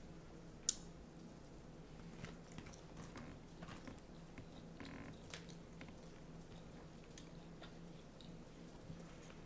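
Close-up chewing and crunching of a Caesar salad with croutons and fried onions, with sharp clicks and taps scattered through. The loudest click comes a little under a second in. A low steady hum runs underneath.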